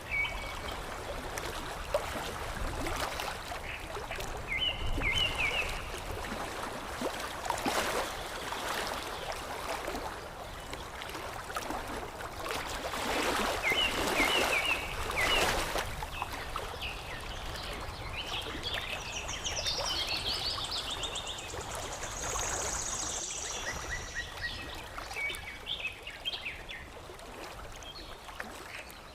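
Water lapping and washing, with louder surges now and then, while small birds chirp on and off in short high phrases; a thin, very high trill comes in a little past the middle.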